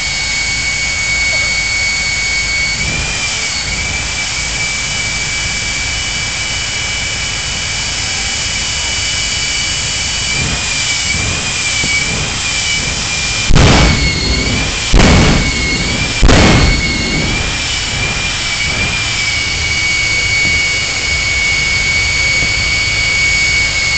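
Jet truck's jet engine running with a steady high whine that wavers slightly now and then. Partway through come three short, loud blasts about a second and a half apart.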